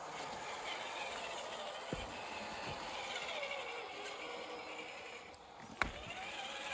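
Radio-controlled scale crawler's electric motor and gear drive whining, the pitch rising and falling with the throttle as it crawls over rough ground, with a click about two seconds in and a sharp knock near the end.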